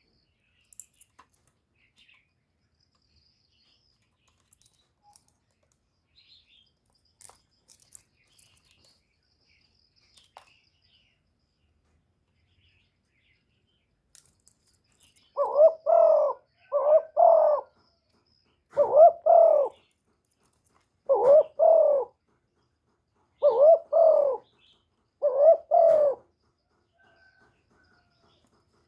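Spotted dove cooing. After about fifteen seconds of quiet broken only by a few faint ticks, the bird gives six low, doubled coos about two seconds apart.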